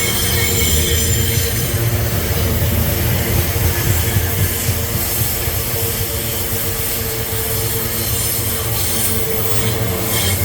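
Freight train rolling past: a steady rumble of wheels on rail, with thin high-pitched ringing tones above it.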